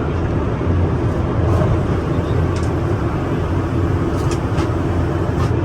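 Steady, even cabin noise inside an Airbus A350-900 airliner, a low rumble of engines and airflow, with a few faint clicks in the cabin.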